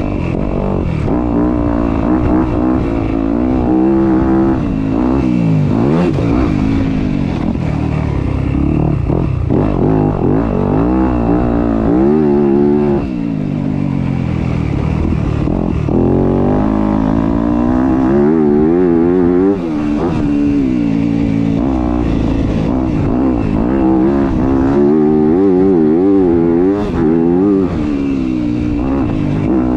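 Dirt bike engine revving hard and easing off over and over as it is ridden, its pitch climbing and falling every few seconds. There are short drops in level at a few points.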